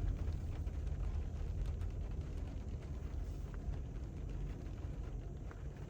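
Low, steady rumble of a car moving slowly, heard from inside the cabin.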